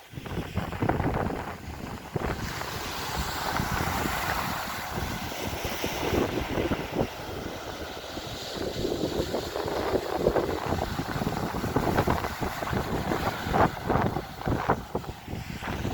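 Strong gusty wind buffeting the microphone, rising and falling in gusts, over the wash of sea waves.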